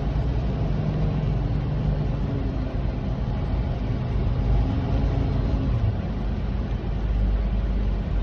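Semi truck driving, heard from inside the cab: a steady low rumble of engine and road noise.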